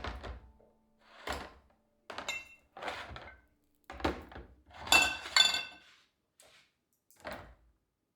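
Household objects being handled and set down: a series of separate knocks and clatters, with two loud ringing clinks about five seconds in.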